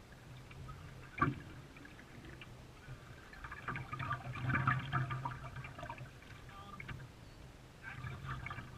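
Canoe paddles dipping and splashing in the water, with a sharp knock about a second in.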